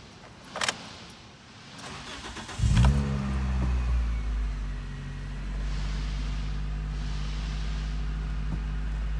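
Toyota Corolla XRS's 2ZZ-GE 1.8-litre four-cylinder starting: a click, brief cranking, then the engine catches about two and a half seconds in with a short rev flare and settles into a steady idle. This is the first start after an oil change with fresh oil in the engine.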